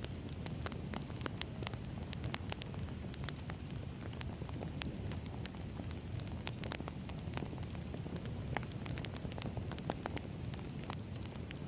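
Wood fire burning: irregular sharp crackles and pops from the logs over a steady low rumble of flame.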